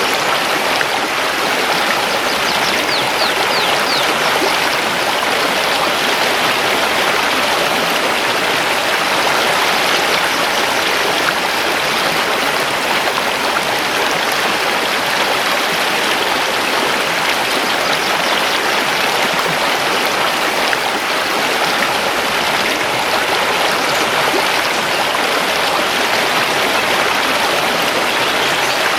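Mountain river flowing over stones, a steady rushing of water, with a few faint high chirps about three seconds in.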